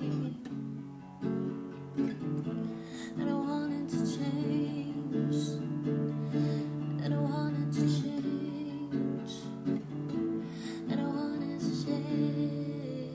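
Acoustic guitar music: chords strummed and plucked at a steady, unhurried pace.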